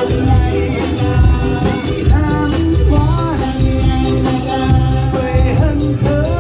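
Live band music: a singer performing a song over amplified bass, drums and guitar with a steady beat.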